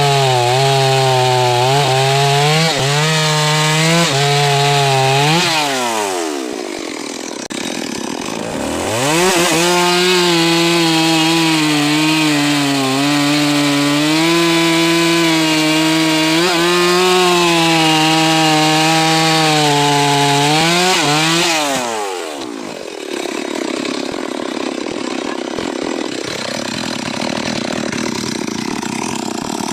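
Stihl MS 381 two-stroke chainsaw cutting wood at full throttle, its pitch sagging and recovering under load. About six seconds in it drops back off the throttle, revs up again about three seconds later for a second long cut, and near the end of that cut it drops back to a lower, quieter running.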